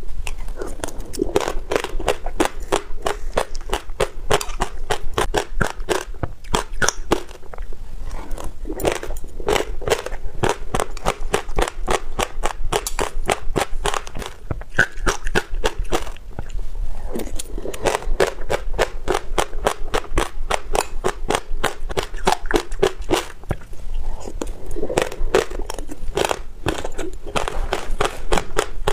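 Passionfruit seeds with yogurt being chewed close to the microphone: dense, sharp crunching and crackling, many cracks a second, in runs with a few brief pauses.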